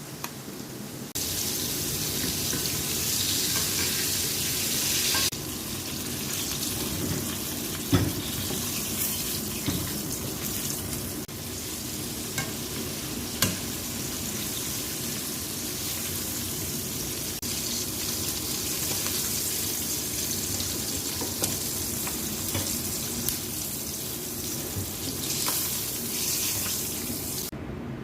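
Chicken wings frying in hot oil: a steady sizzle, with a few sharp knocks along the way.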